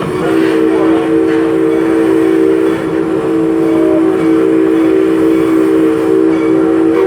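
Steam locomotive's chime whistle blowing a long, steady blast of several notes sounding together, with a brief break just after the start. It cuts off at the end.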